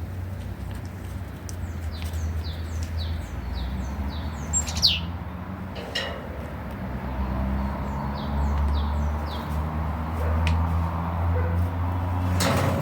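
A small songbird singing a quick series of short falling notes over a steady low hum, with a few sharp knocks, the loudest about five seconds in and near the end.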